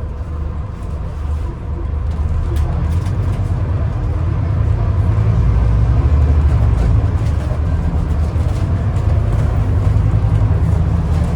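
Scania N250UD double-decker bus heard from inside, its five-cylinder diesel engine and drivetrain making a deep rumble. The rumble grows louder over the first few seconds, then holds steady.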